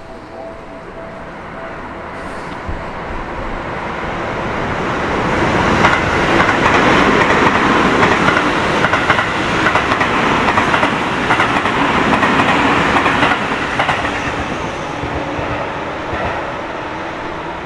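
A train passing, its wheels clattering over the rails. The noise builds over the first few seconds, is loudest through the middle and fades toward the end.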